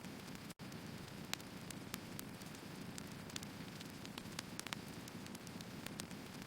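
Firewood burning: a steady hiss and low rumble of the fire with scattered sharp crackles and pops from the logs. The sound drops out for an instant about half a second in.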